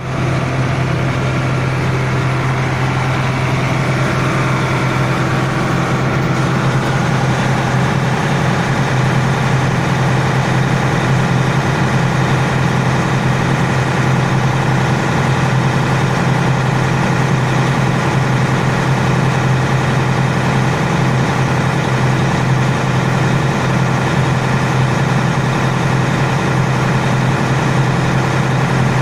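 Air conditioning system running in a performance test after its blocked refrigerant circuit was flushed with R11. It gives a steady, unbroken mechanical hum with a strong low drone.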